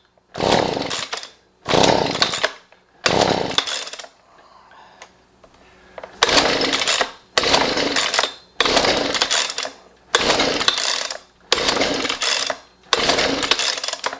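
Husqvarna 125B leaf blower's small two-stroke engine being pull-started over and over, three pulls, a short pause, then six more. Each pull brings a brief burst of engine noise that fades away without the engine catching and running, a sign of the no-start fault that the repairer later traces to a restricted muffler.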